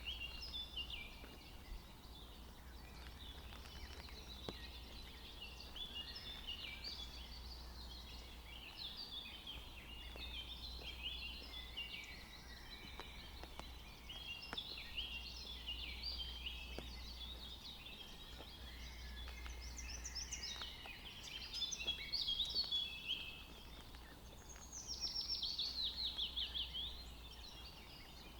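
Forest birds singing, a dense chorus of overlapping chirps and whistles; near the end one bird gives a rapid series of falling notes.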